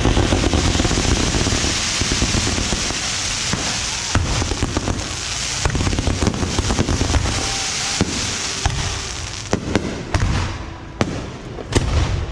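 A barrage of bottle rockets and firecrackers from the Yanshui beehive rocket festival: a dense hissing rush packed with rapid crackling pops, thinning out near the end into scattered sharp bangs.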